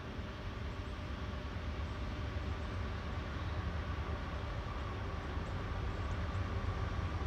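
Approaching CSX coal train's diesel locomotives, a low rumble slowly growing louder.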